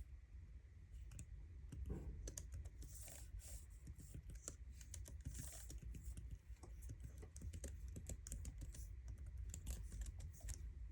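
Typing on a MacBook keyboard: quick, irregular soft key clicks in a continuous run, with a few brief brushing sounds between keystrokes.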